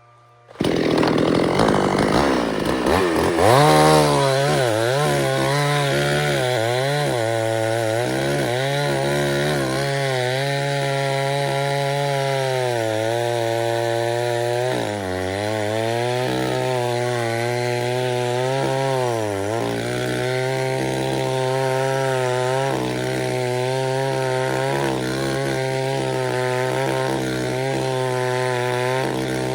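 Chainsaw running hard and cutting wood, starting abruptly about half a second in. Its engine note sags briefly several times as the chain bogs under load in the cut, then recovers.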